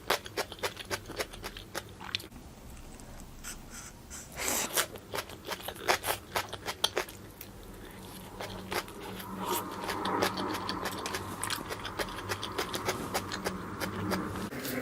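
Close-miked eating of barbecue skewers: crisp crunches, chewing and sharp clicks in quick succession, with a steadier hiss joining about nine seconds in.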